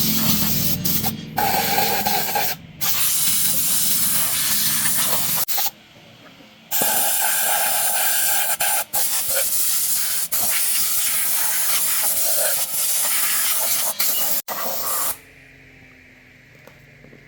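Compressed air hissing out of a nozzle in long, loud bursts. It cuts off briefly a few times, pauses for about a second after the first five seconds, and stops about fifteen seconds in.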